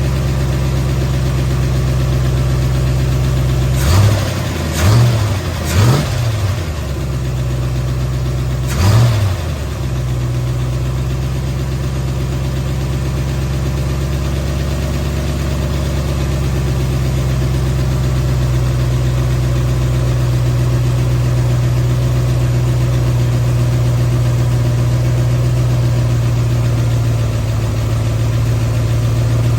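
Ford 351 Windsor V8 idling during its initial tune-up after cam break-in. Three quick throttle blips about four seconds in and a fourth about nine seconds in each raise the revs briefly before the engine settles back to a steady idle.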